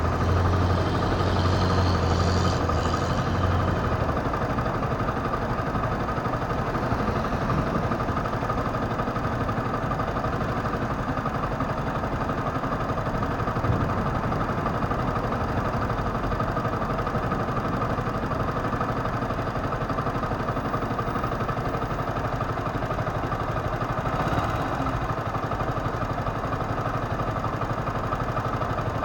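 Motorcycle engine running steadily at low revs in city traffic, with a deeper engine hum in the first few seconds and a brief hiss about 24 seconds in.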